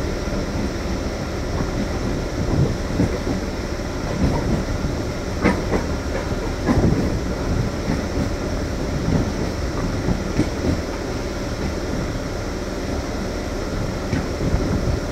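MEMU electric multiple-unit train running on the track, a steady rumble with its wheels knocking irregularly over the rail joints; a few louder knocks come around the middle.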